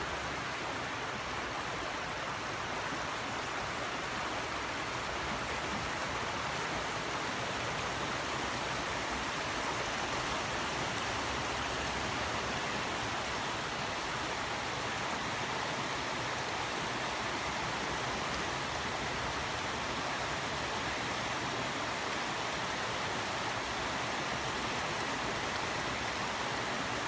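Cartecay River running over rocks: a steady, even rush of flowing water.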